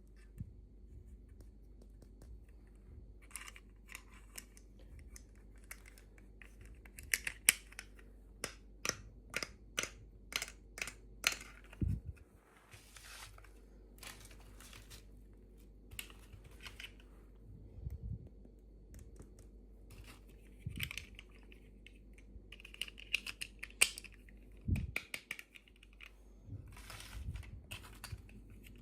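Toy packaging being opened and handled by hand: a run of sharp plastic clicks and taps with short bouts of crinkling and tearing.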